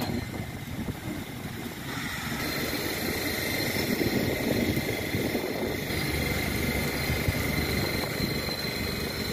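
Diesel locomotive running steadily with a low engine rumble; a steady high whine joins about two seconds in.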